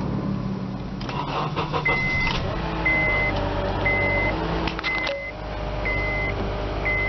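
2008 Honda Accord engine idling steadily just after a jump start, its dead battery being the cause of the failed starts. Over it, a short high electronic beep repeats about once a second, with a few clicks about one and five seconds in.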